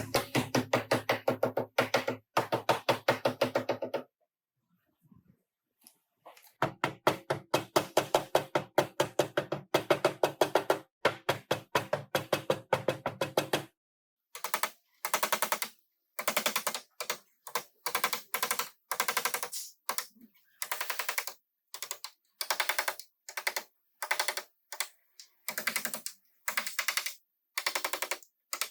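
Rapid repeated knocks on car body sheet metal, about ten a second, from a tool at work on the panel. They come in long runs of several seconds, then in shorter bursts of about a second with pauses between.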